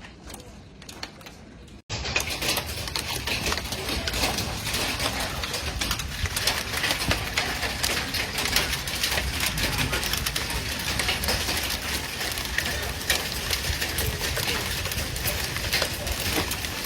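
Hail pelting down: a dense, steady clatter of countless small impacts over a rushing noise, starting abruptly about two seconds in after a quieter stretch of scattered ticks.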